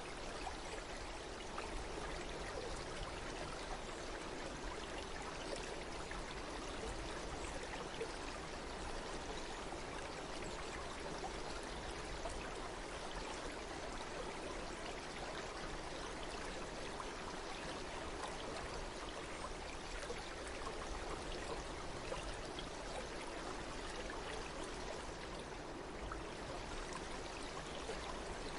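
Running water of a stream flowing steadily, an even, unbroken rush.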